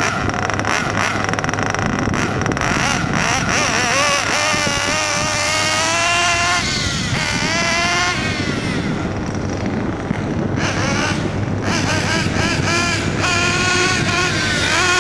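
Nitro glow engine of a Kyosho Inferno MP9 TKI3 1/8-scale RC buggy running, its revs rising and falling several times over a steady low hum, during a tuning run after break-in.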